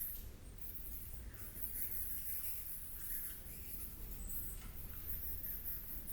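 Cave ambience: continual high-pitched, flickering squeaks or chirps over a steady low rumble, with a few fainter chirps in between.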